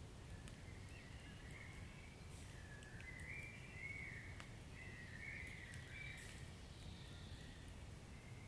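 Wood fire burning in a fireplace: a low steady rumble with sparse sharp crackles. A faint, wavering high whistle rises and falls through the middle.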